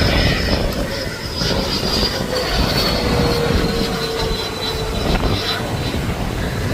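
Twin 80 mm electric ducted fans of an RC MiG-29 jet whining high, the pitch slowly falling, over heavy wind rumble on the microphone.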